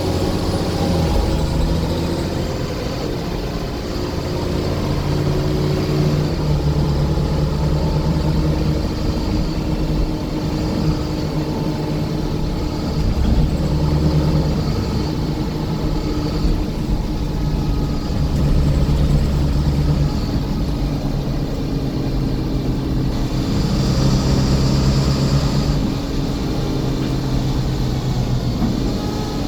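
Scania coach's diesel engine running while under way, its pitch stepping up and down several times.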